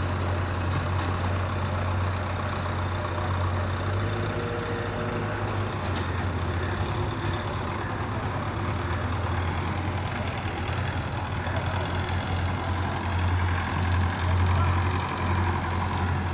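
Tractor diesel engine running steadily with a low, even drone, growing louder for a couple of seconds near the end.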